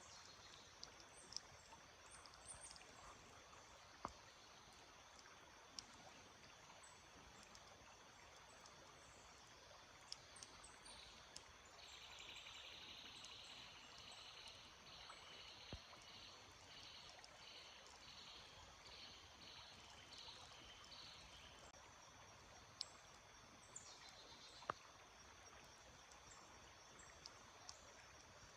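A small stream flowing faintly and steadily, with a few short high chirps scattered through it. For about ten seconds in the middle, a high call of quickly repeated notes sounds over the water.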